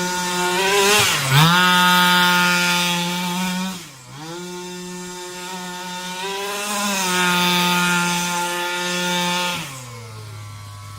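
HPI Baja 5B's 23cc two-stroke petrol engine with the stock box exhaust running at high revs. It dips briefly about a second in and again about four seconds in, then drops to a steady idle near the end.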